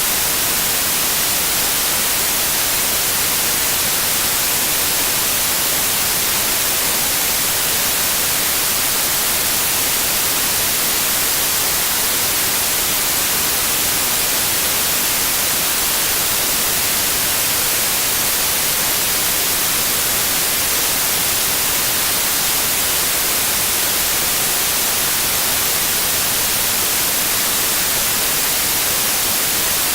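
Synthetic white noise: a steady, even hiss, brightest in the high frequencies, unchanging throughout.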